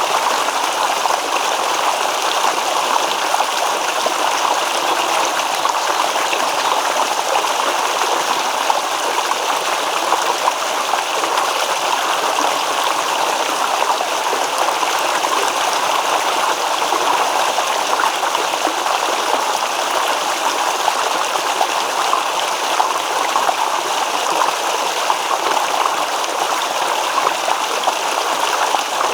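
A shallow stream babbling over rocks: steady rushing and rippling water with fine trickling detail.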